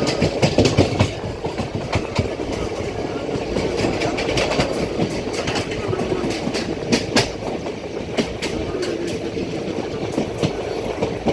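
Passenger train running along the track, wheels clattering over the rails in a steady rumble broken by frequent sharp clicks.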